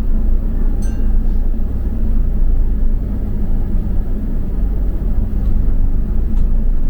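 Steady low rumble of a double-decker bus heard from inside, engine and road noise, with a brief click about a second in.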